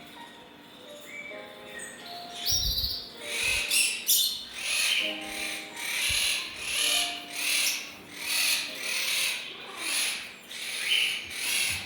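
A room of caged birds calling, with high, harsh chirps repeating in a steady rhythm about every second and a couple of dull thumps.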